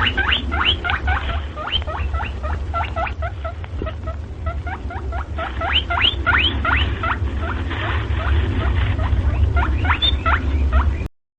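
Rabbit squeaking: a fast run of short, high squeaks, several a second, over a steady low rumble.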